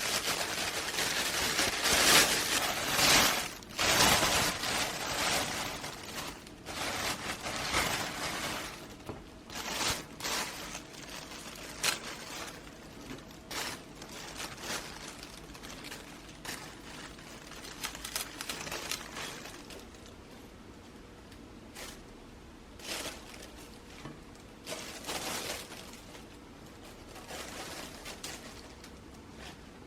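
Kitchen items being handled: irregular clinks, knocks and rustling bursts, busiest in the first few seconds and then sparser.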